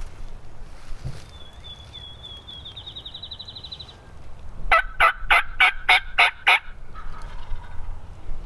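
Wild turkey gobbler gobbling once, a rapid rattling run of about eight notes lasting about two seconds, near the middle. Before it a small songbird sings a thin high trill.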